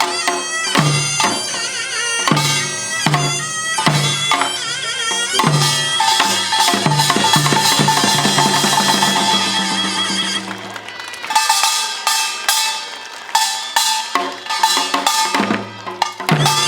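A Korean pungmul band playing: drums and gongs beat a steady rhythm under a wavering taepyeongso shawm melody. About six seconds in the beating thickens into a fast, dense passage, then falls away about eleven seconds in before the strikes start up again.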